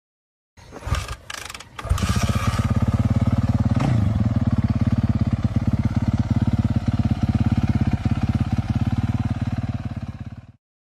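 Several motocross motorcycles' engines running hard together at a race start: a loud, steady drone with a fast pulsing beat that cuts off suddenly near the end.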